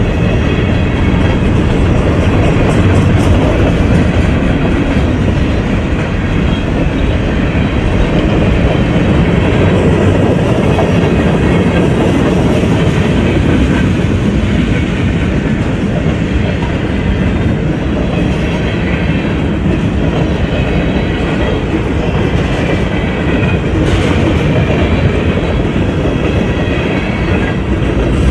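A train rolling past at close range: a loud, steady rumble of wheels on rail with a clickety-clack from the rail joints.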